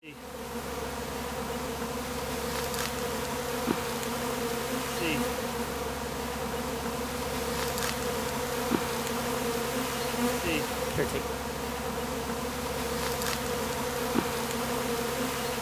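A swarm of honeybees in flight: a loud, steady buzzing hum. Now and then a single pitch briefly slides, and there are a few light ticks.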